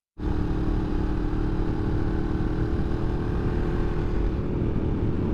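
Motorcycle engine running at a steady, even speed while cruising, its engine note held level over a low rumble.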